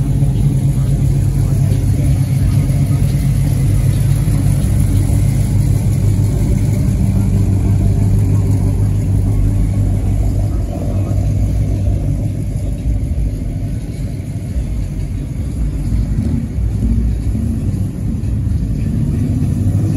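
Car engine running steadily at low revs, then revving up near the end with a rising pitch.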